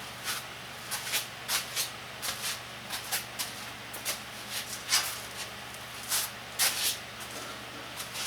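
Paper rustling in short, irregular swishes as the pages of a manual are handled and turned, over a faint steady hum.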